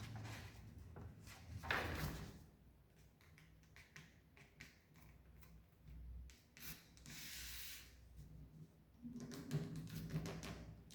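Sheet of paper rustling and rubbing as it is folded and creased by hand, in several separate bursts with small taps between them.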